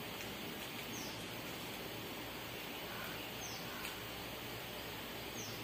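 Quiet steady background hiss with three faint, short, high chirps, each falling in pitch, about two seconds apart, from a small bird.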